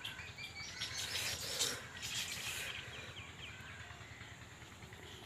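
Faint outdoor ambience of birds chirping, with a quick run of short chirps about three seconds in.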